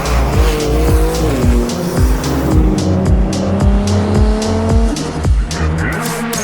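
Car tyres squealing in a long drift, with held and sliding pitches, over electronic music with a steady thumping beat.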